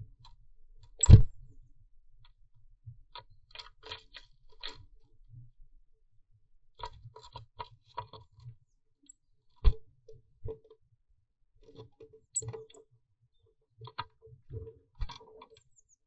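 Blue tit moving about inside a wooden nest box: scattered scratches, taps and clicks on the wood, with a sharp knock about a second in and another near ten seconds.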